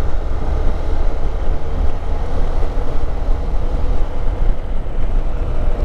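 Hero Xpulse motorcycle riding along a road: heavy wind rumble on the camera's microphone over the steady running of its single-cylinder engine.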